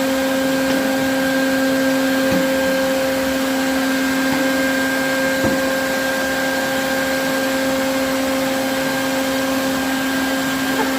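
Electric motor of a vacuum-type machine running steadily at one constant pitch, with a few faint knocks.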